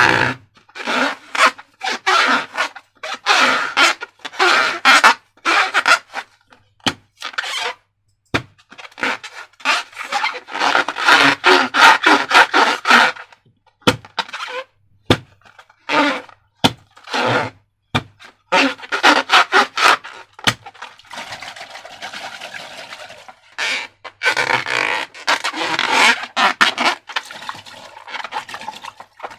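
Slime being squeezed and worked by hand: sticky, wet squishing and crackling in many short, irregular bursts, with a longer continuous squish about two-thirds of the way through.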